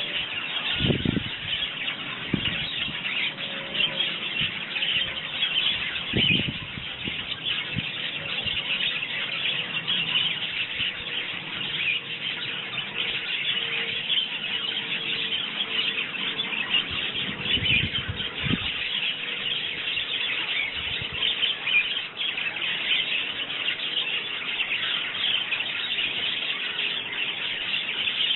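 A flock of sparrows chirping and chattering continuously at garden feeders, with a few short dull low thumps in the first twenty seconds or so.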